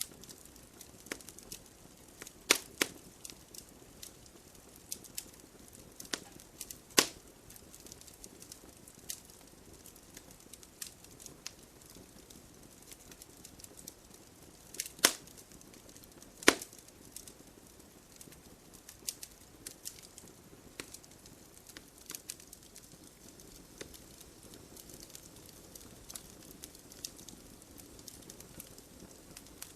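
Wood fire of burning logs in a fireplace crackling: irregular sharp pops and snaps over a soft steady hiss, with a few much louder pops now and then.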